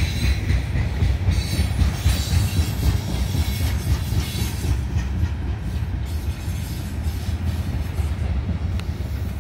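Freight cars of a Norfolk Southern ballast train rolling past, a steady low rumble of wheels on rail. A faint high wheel squeal and rattle over the first half eases off after about four seconds.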